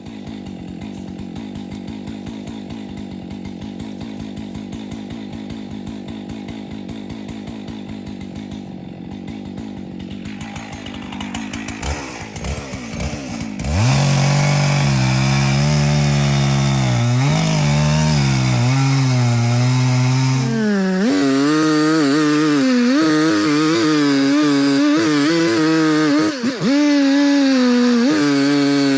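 Two-stroke chainsaw idling for about ten seconds, then revved up and cutting into the trunk of a dead ash tree to notch it for felling. The engine pitch dips and rises again and again as the chain loads in the wood.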